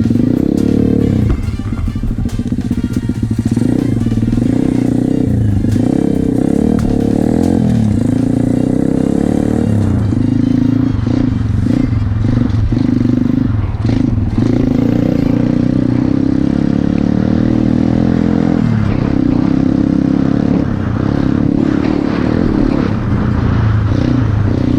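Pit bike engine being ridden hard off-road, revving up and falling back again and again with the throttle, its pitch rising and dropping every second or two.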